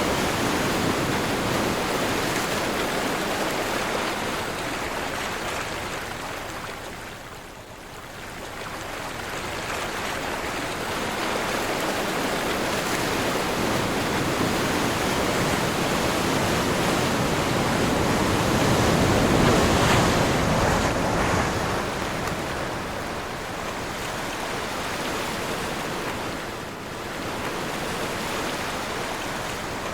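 Sea surf on a windy day: waves breaking and washing in, rising and falling in waves of noise, with a brief lull about eight seconds in and the loudest surge around two-thirds of the way through.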